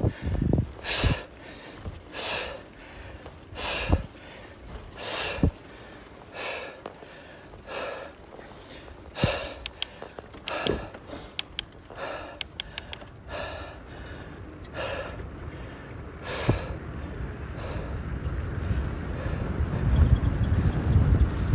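A person breathing hard, one loud breath about every second and a half, over and over. Wind buffets the microphone more and more over the last few seconds.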